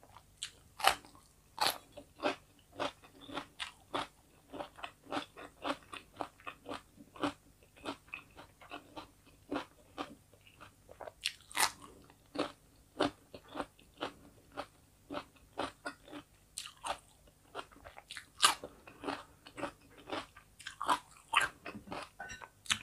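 Close-miked crunching and chewing of raw cucumber slices: a quick run of crisp wet crunches, about two a second, with a few louder bites.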